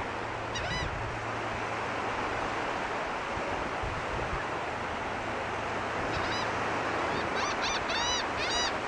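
Gulls calling: a brief call about half a second in, then a quick run of repeated calls from about six seconds in, over the steady rush of surf.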